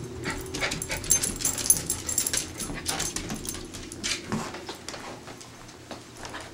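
A dog whimpering and yipping over a quick, irregular run of clicks and scuffles, which are busiest for the first four seconds and thin out after.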